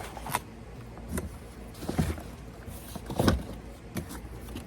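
Several scattered knocks and clicks with brief rustling: someone moving about and handling boxes and things.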